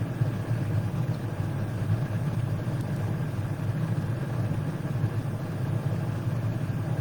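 Steady low background rumble that holds even, with no breaks or changes.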